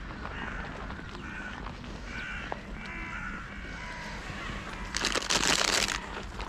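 Crows cawing several times. About five seconds in, a loud rustle lasting about a second.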